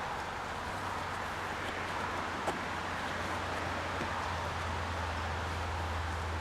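A steady low hum over an even outdoor background noise, growing stronger about four seconds in, with one sharp click about two and a half seconds in.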